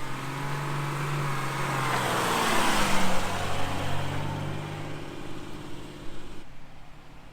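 Four-wheel-drive vehicle driving on a sand track, engine humming with tyre and wind noise that swells to a peak about three seconds in and then fades.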